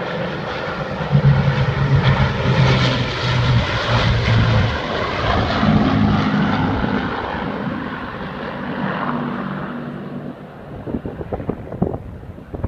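Avro Lancaster bombers' Merlin piston engines droning as they fly past. The sound builds to its loudest in the first half and dies away after about ten seconds, with wind buffeting the microphone near the end.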